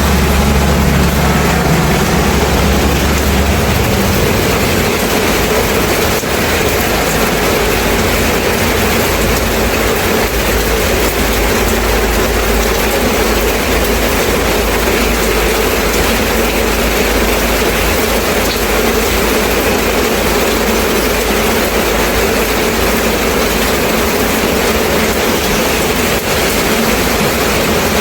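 Steady rain falling, an even hiss throughout. A low rumble is strong for the first few seconds, then fades out.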